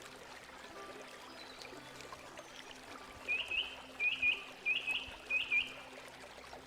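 Running water trickling steadily, with a small bird chirping a quick run of short notes in pairs about halfway through.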